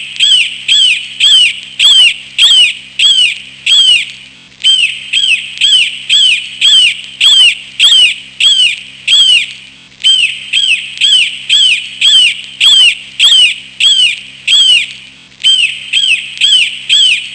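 A hawk calling: a long run of sharp, high screeching calls, about two a second, with brief pauses every few seconds.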